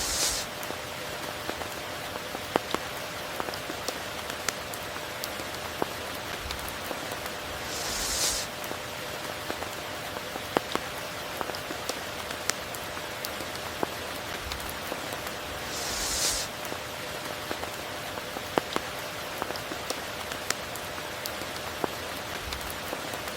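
Steady heavy rain falling, with scattered sharp drop hits. A brief high hiss swells about every eight seconds, three times in all.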